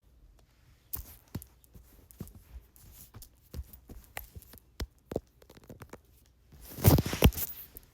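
Close handling noises: scattered small clicks and scratchy rustles, with a louder burst of rustling and knocks about seven seconds in.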